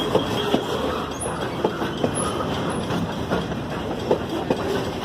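A train rolling past, its wheels clattering over the rail joints, with a few short, high wheel squeals.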